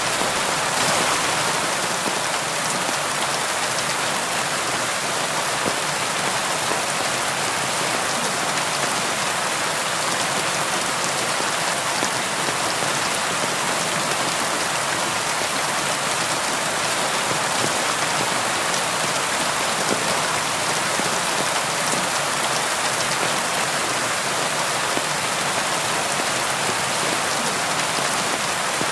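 Steady rain pattering on a window pane, an even, unbroken hiss of many small drops with no thunder.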